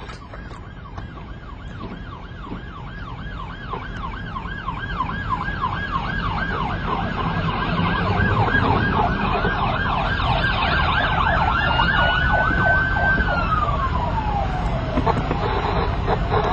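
Police car siren in its fast yelp, about four sweeps a second, growing louder as it approaches, over engine and road noise. Near the end the yelp gives way to a long tone that glides down in pitch.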